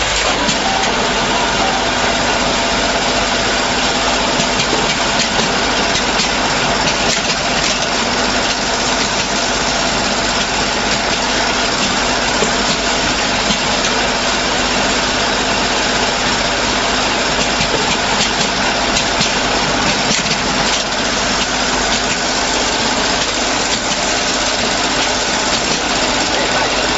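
Single-station automatic packaging machine running steadily: a continuous mechanical noise with a steady hum and faint scattered clicks.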